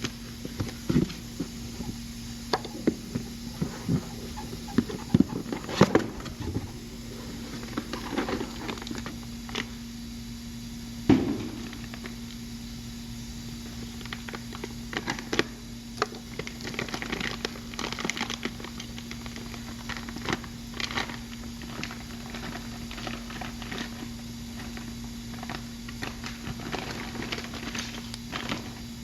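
Scattered clicks, taps and knocks of tools and parts being handled during a rear wheel bearing hub replacement, with one louder knock about eleven seconds in, over a steady low hum.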